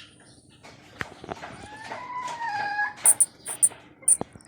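A chicken gives one drawn-out call that drops slightly in pitch, followed about three seconds in by several short, sharp, high-pitched chirps.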